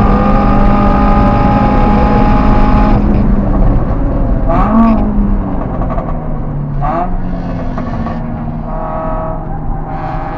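Car engine heard from inside the cabin, running at high revs, then lifting off about three seconds in. Two short rev blips follow while slowing for a corner, and the engine pulls again near the end.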